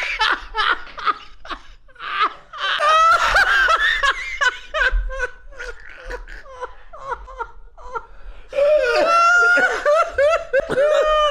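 Hearty human laughter in waves of fits with short lulls between. The longest and loudest burst of laughing comes near the end.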